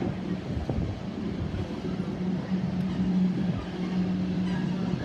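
Class 387 electric multiple unit running slowly through the station with a steady electrical hum, while wind buffets the microphone with a low rumble.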